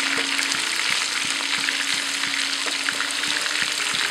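Chicken pieces frying in hot coconut oil in a pan: a steady sizzle with frequent small crackles and pops.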